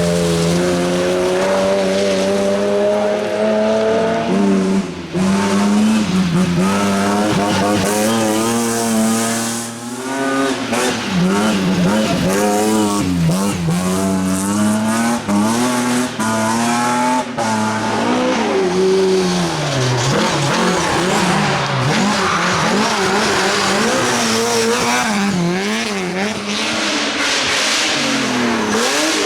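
Rally car engine revving hard on a stage: the pitch climbs steadily, falls sharply twice at gear changes, then swings rapidly up and down as the driver blips and lifts through corners.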